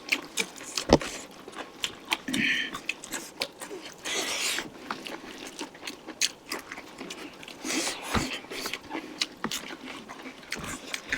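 Close-up eating sounds of chicken curry being chewed: wet chewing, lip smacks and many small sharp clicks, with a short hiss a little over four seconds in.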